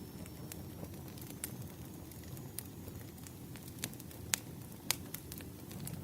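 Bonfire crackling: a steady low rumble of burning with scattered sharp pops of burning wood, the loudest two a little after four seconds and near five seconds in.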